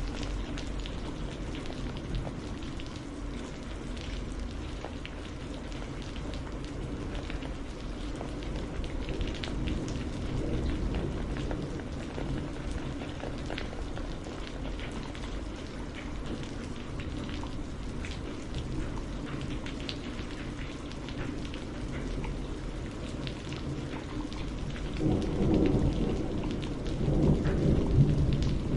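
Steady rain falling, with many small drop ticks over a constant hiss. A low rumble of thunder swells in near the end.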